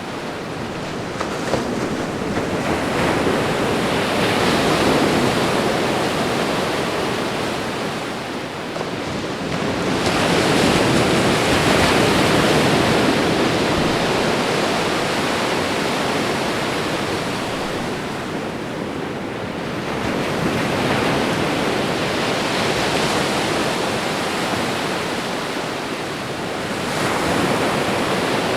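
Ocean waves washing onto a shore: a continuous rush of surf that swells and eases as each wave comes in, about every seven to ten seconds.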